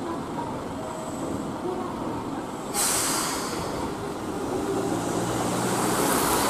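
Keihan Railway electric train moving slowly across a level crossing. About three seconds in there is a sudden hiss of air from its brakes, then a low hum and running noise build as it rolls on.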